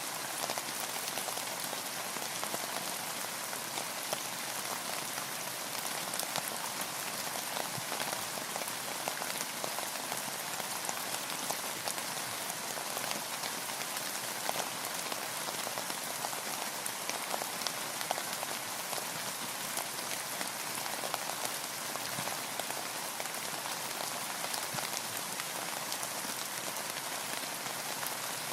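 Steady rain falling, with many small drops pattering and ticking over a constant hiss; the rain on a boat and the water around it.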